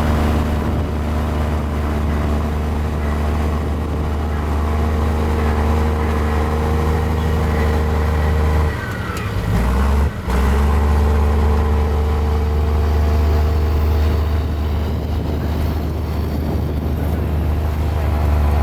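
Mini Komatsu bulldozer's diesel engine running steadily under work. About nine seconds in, the engine note briefly drops and dips, then picks back up.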